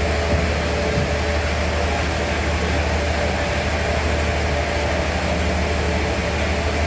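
Band sawmill machinery running steadily: a deep hum with a constant whine above it, no change in load.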